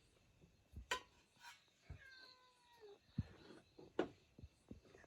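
A domestic cat meows once, a drawn-out call of just under a second about two seconds in. A few sharp clinks or knocks fall around it, the loudest about a second in and about four seconds in.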